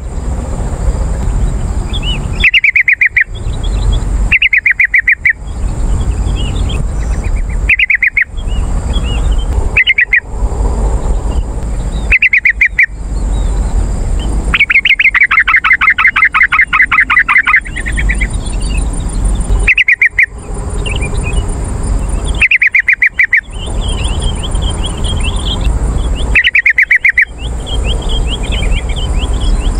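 Yellow-vented bulbul (trucukan) singing: short, rapid rattling bursts of notes every two to three seconds, with one longer burst of about three seconds halfway through. Fainter chirps and a low rumble fill the gaps between bursts.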